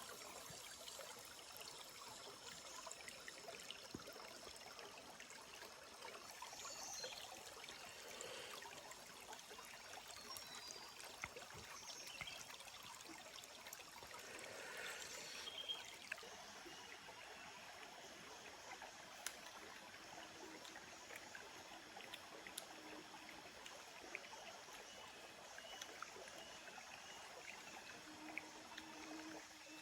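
A small stream trickling and flowing, faint and steady, with a few faint high chirps and ticks scattered over it.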